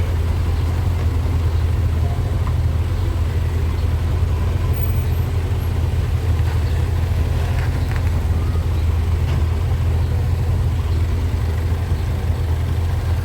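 Small-displacement motorcycle engine running steadily at low speed in traffic, a constant low rumble.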